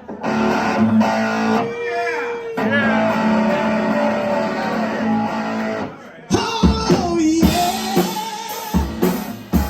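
Live rock band: electric guitar playing on its own, with the drum kit coming in after a short break about six seconds in.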